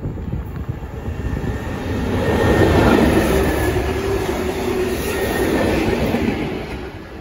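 Locomotive-hauled freight train of flat wagons passing close by: wheel and wagon rumble builds to its loudest about three seconds in and holds, with a faint steady whine running through it, then fades as the rear locomotive goes by.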